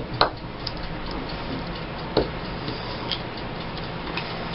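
Timer ticking under a low steady hum, with a few sharp taps and clicks from handling paper craft pieces, the loudest about a quarter second in and about two seconds in.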